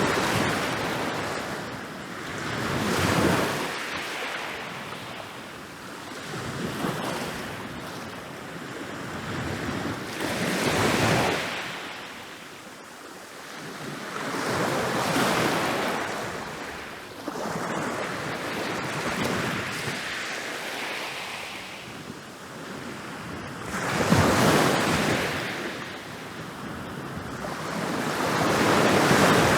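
Ocean waves rolling in and breaking on a beach, each surge of surf swelling and then washing back, one about every four to five seconds. The breaks near 24 s and at the very end are the loudest.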